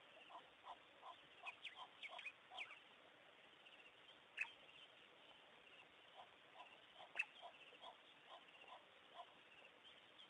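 Faint outdoor ambience of birds calling: a run of short repeated notes, about three a second, broken by a few sharp, high chirps. The loudest chirp comes about seven seconds in.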